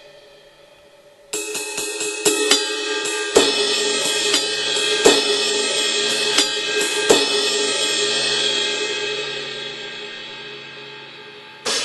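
Sampled cymbal sounds from a 2Box electronic drum module, triggered by edge hits on converted electronic cymbals. A quick run of light hits about a second in is followed by four stronger strikes spaced a second or so apart, then a long ring-out, and a new crash just before the end. The light hits show how little it takes to trigger the edge sound.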